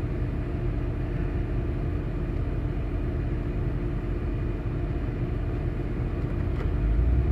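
Vehicle engine running steadily with a low rumble, which grows deeper and louder near the end.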